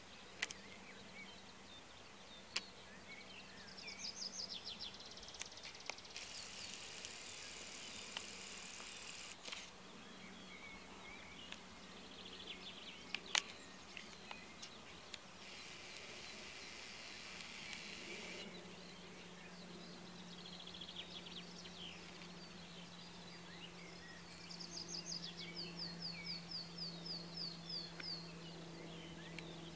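Quiet outdoor ambience: small birds chirping and singing, with a quick run of repeated high notes near the end, over a faint steady low hum. Twice a few seconds of hiss, and a sharp click about halfway.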